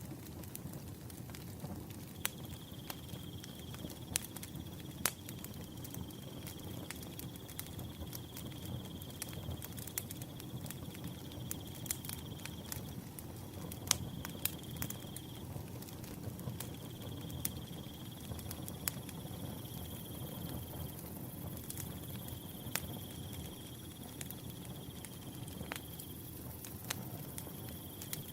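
Wood fire crackling, with scattered sharp pops over a low steady rumble of flame. About two seconds in, a cricket starts a steady high-pitched trill that runs in long stretches with short breaks.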